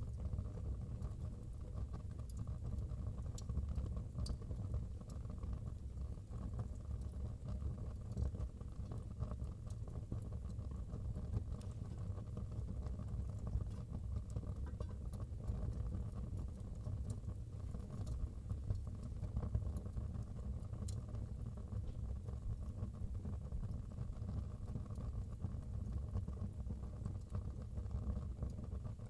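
Wood fire burning in a fireplace: a steady low rumble of flames with a few faint, sparse crackles.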